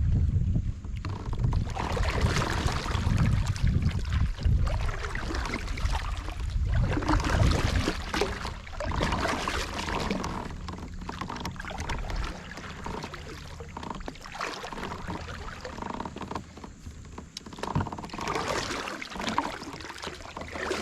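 Kayak paddle strokes splashing and dripping in the water, one every two to three seconds, with a low rumble of wind on the microphone in the first half.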